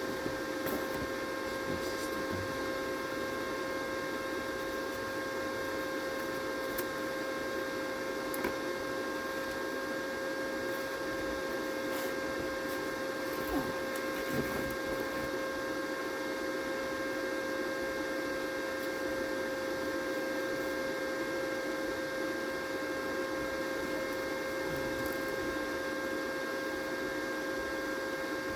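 Steady electrical or machine hum with a few faint clicks.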